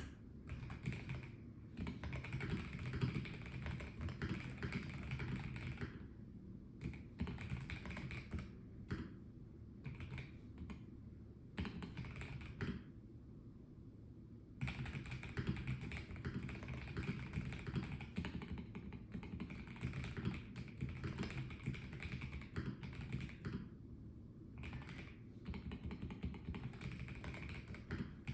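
Typing on a Melgeek Mojo84 plastic mechanical keyboard: runs of fast keystroke clicks broken by short pauses, the longest about two seconds, near the middle.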